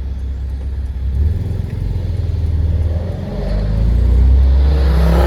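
Car driving on a road: a steady low rumble of engine and tyres that grows louder from about three seconds in, with a louder rush of noise just before the end.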